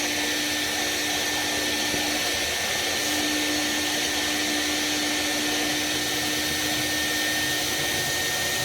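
Vacuum cleaner motor running steadily with a high whine, its hose sucking out the cast-iron firebox of a Buderus G115 oil-fired boiler during cleaning.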